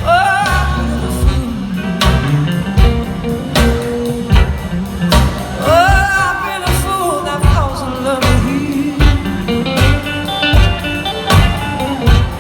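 Live blues band music: electric guitar playing a lead line with gliding, bending notes over drums and bass, at a slow steady beat.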